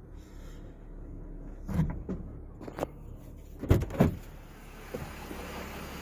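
Vehicle door being opened: a few light clicks, then two heavy clunks about four seconds in, over a low steady engine hum. A steady hiss comes up after the clunks.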